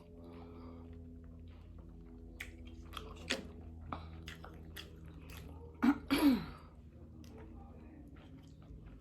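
Close-up chewing and biting on seafood-boil crab legs and shrimp, with scattered small clicks and crunches of shell. There is one brief loud mouth sound with a falling pitch about six seconds in.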